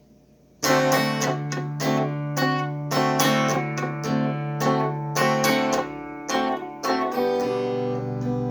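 Acoustic guitar playing a song's intro, starting about half a second in: repeated picked and strummed chords over a held low bass note that steps down near the end.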